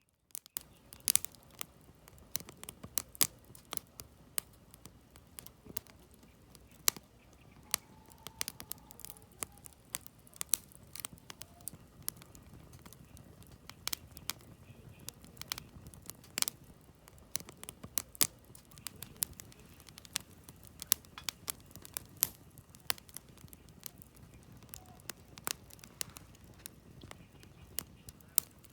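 Campfire of split firewood burning, crackling with irregular sharp pops, several a second, over a low steady rush of flame.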